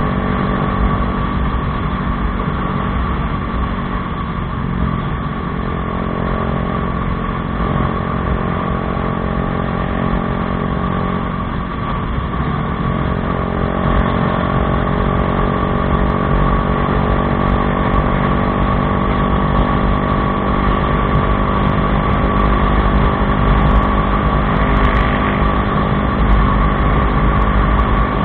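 Bajaj Dominar 400's single-cylinder engine running through an aftermarket Akrapovič exhaust, with a steady, even note that grows a little louder in the second half.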